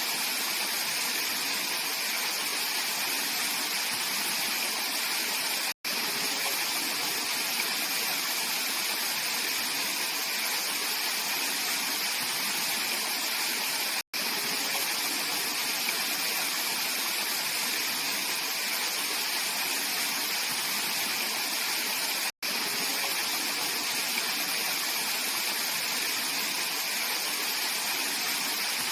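Mountain valley stream flowing, a steady continuous rush of water, cut off for a split second three times at even intervals.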